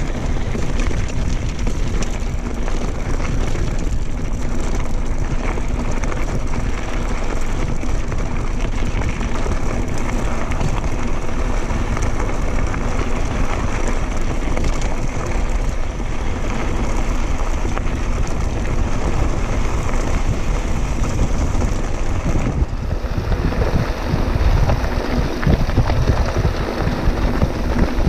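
Wind rushing over the microphone and mountain bike tyres rolling over a dirt trail while riding, growing louder and rougher in the last few seconds.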